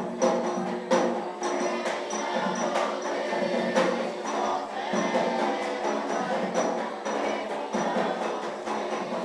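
Afro-Brazilian religious ceremony music: a steady beat of hand drums and percussion, a high metallic bell struck about twice a second, and voices singing a chant over it.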